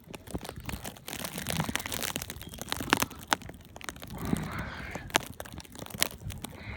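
Footsteps crunching through deep snow: an irregular run of crunches and sharp clicks.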